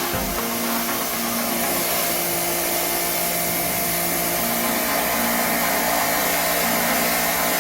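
Electric high-pressure washer running steadily, a motor hum under the hiss of its water spray, while the air conditioner's indoor unit is rinsed.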